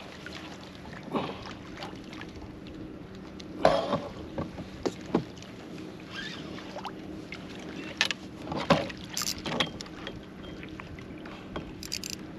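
Knocks, clunks and short splashes from a fish being handled and brought aboard a kayak. The loudest come about four seconds in and again around eight to nine seconds in, over a steady low hum.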